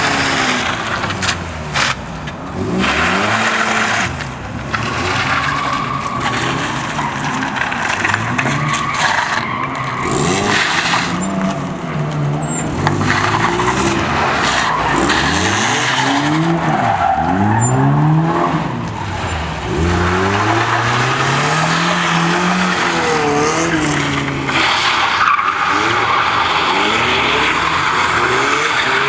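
Car engine revved again and again, its pitch climbing and dropping many times over a steady hiss.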